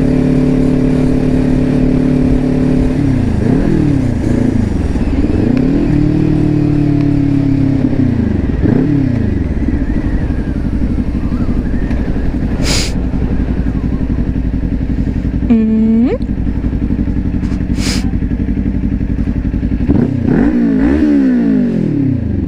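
Kawasaki Ninja 400 parallel-twin engine running under way, its revs falling and climbing back up about three times, as in rev-matched downshifts with a throttle blip. Two sharp clicks come partway through.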